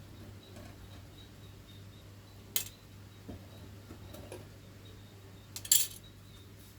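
Hard small objects handled during clock repair work: a sharp click about two and a half seconds in and a louder short clatter near the end, with a few faint taps between, over a steady low hum.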